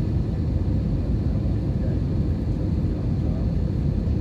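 Steady low rumble of engine and airflow noise heard inside the cabin of an Airbus A321 airliner in flight on its approach to land.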